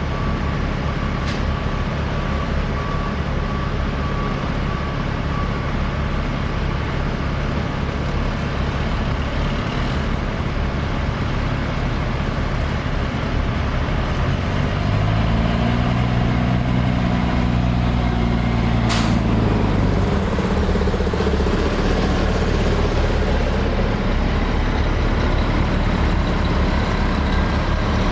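Diesel engines of racing trucks running on the circuit, a steady heavy drone. About halfway through one truck comes up louder, its engine note climbing, then dropping away about two-thirds in with a short sharp crack.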